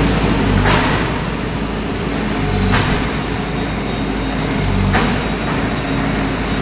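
Heavy machinery's diesel engine running steadily on a demolition site, with three sharp knocks about two seconds apart.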